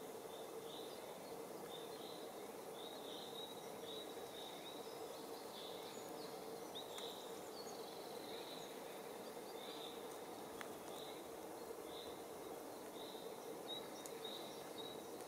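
Quiet pond ambience: a steady background hiss and hum, over which a small bird gives short high chirps again and again, about one or two a second.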